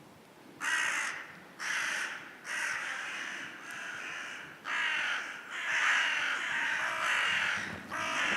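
Crows cawing over and over, harsh calls coming in quick succession, with longer, overlapping calls in the second half.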